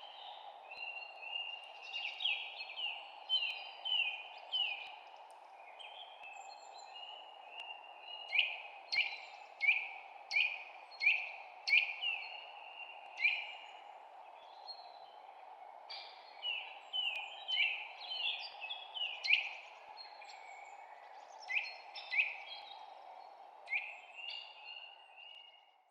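Songbirds chirping: a long run of short, sharp chirps, one or two a second, over a steady background hiss.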